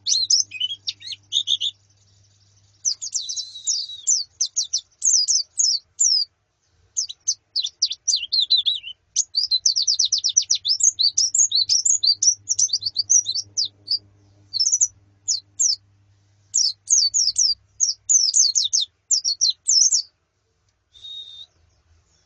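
White-eyes (pleci), female and colony calls: rapid runs of high chirps and twitters in bouts with short pauses, stopping near the end after one last brief call.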